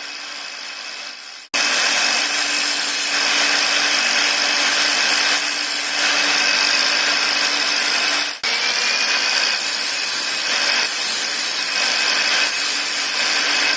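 Bench-mounted angle grinder with a wood-polishing wheel running at speed while a drill bit is held to it for sharpening: harsh grinding noise over the motor's steady whine, with a momentary break about eight seconds in.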